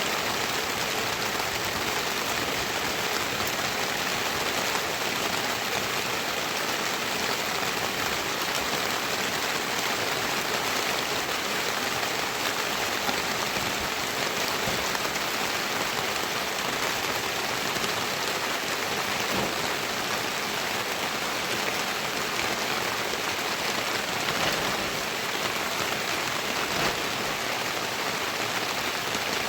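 Heavy rain falling steadily: a dense, even hiss of rain with faint scattered drop ticks.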